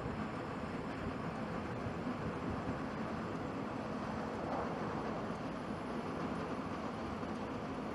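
Jet engine noise from an Airbus A320neo with CFM LEAP-1A turbofans at takeoff thrust: a steady, deep rushing sound that swells slightly about halfway through.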